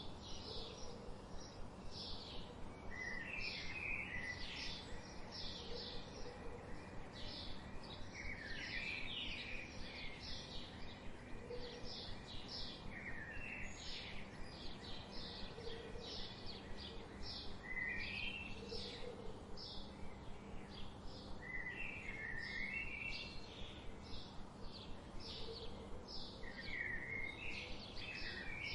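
Wild birds singing together: one bird repeats a short high chirp about twice a second, others sing short warbling phrases every few seconds, and there are soft low calls now and then, over a steady background hiss.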